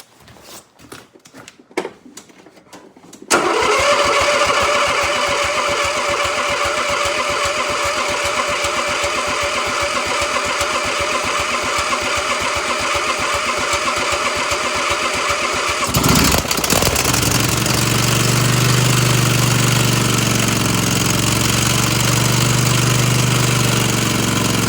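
An engine cold-started: a few clicks, then it catches abruptly about three seconds in and runs steadily with rapid, even firing and a steady whine. About sixteen seconds in its note shifts to a deeper, louder run.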